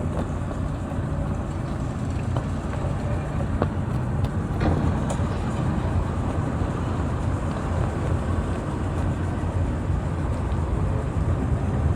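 An engine running steadily with a low hum, with a few faint knocks in the first half.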